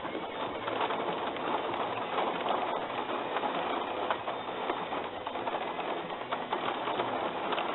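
Rain falling on a van's roof and windows, a steady dense patter of drops heard from inside the van.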